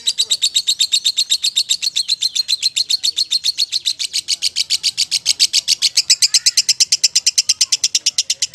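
Lovebird singing its long 'ngekek' song: an unbroken, fast chatter of sharp high notes, about ten a second.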